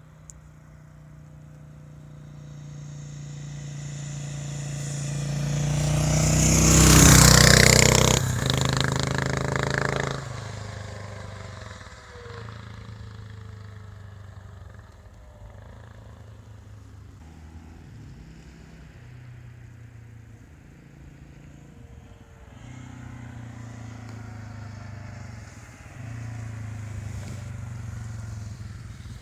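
Yamaha XT 600 single-cylinder four-stroke enduro engine running through a Sebring exhaust. It grows steadily louder to a loud peak about seven seconds in, falls back sharply, then runs at a lower steady level with two later rises.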